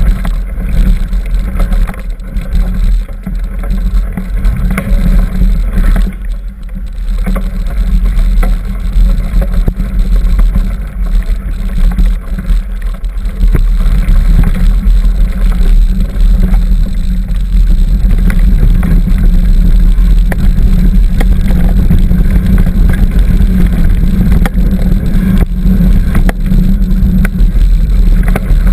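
Continuous low rumble of wind and trail vibration picked up by a camera riding along on a mountain bike, with scattered clicks and rattles.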